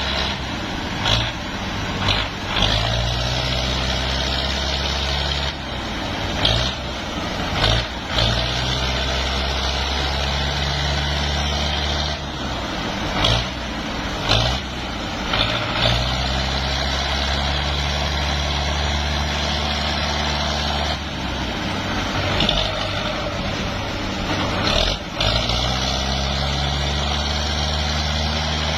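Ford tractor engine running hard, its note shifting up and down several times, with short sharp clanks at irregular moments, as the stuck tractor is worked to pull free.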